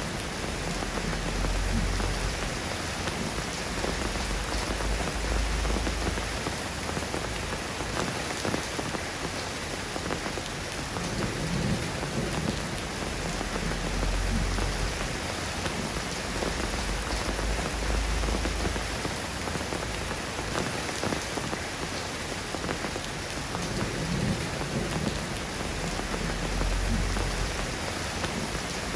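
Steady rain falling in an even patter, with a low rumble of thunder swelling and fading several times.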